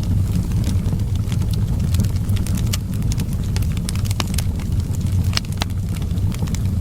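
Wood fire crackling, with many small sharp pops scattered irregularly over a steady low rumble.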